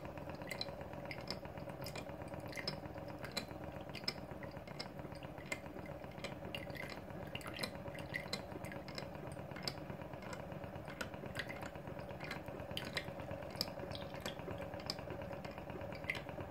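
Model Stirling engine running and driving an old Pericaud toy water pump: a steady hum with a faint held tone, and irregular light metallic clinks and drips as the pump works and water falls into its basin.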